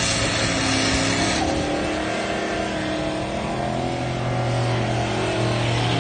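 Buick Grand National's turbocharged V6 doing a burnout: loud tyre-spin noise that stops about a second and a half in, then the engine running on with a wavering note as the car rolls forward.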